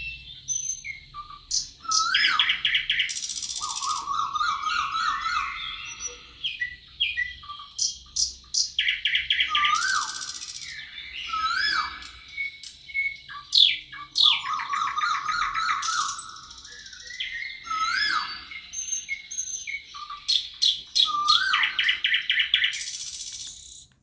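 Several songbirds singing in a forest, with overlapping repeated phrases: upswept whistled notes, rapid trills and high buzzy runs, each coming back every several seconds.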